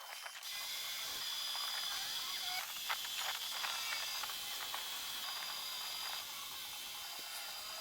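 A steady hiss starts about half a second in, with a faint high whine running through it and a few light knocks, easing slightly near the end.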